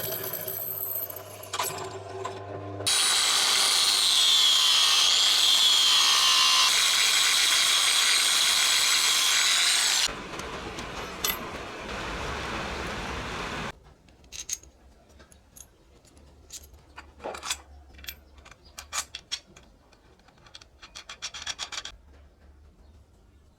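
A power tool running hard under load for about seven seconds, with a high whine that wavers in pitch. It then gives way to a quieter working noise for a few seconds, and after that to scattered light clicks and taps.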